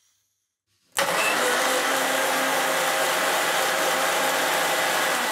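Electric kitchen mixer grinder with a steel jar, blending a banana shake: it is switched on abruptly about a second in and runs at a steady high speed.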